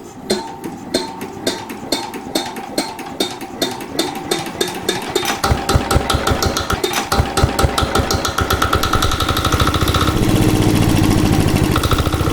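Old Yanmar stationary diesel engine turning over with evenly spaced knocks that quicken. It catches about five and a half seconds in and runs up to a steady, even speed.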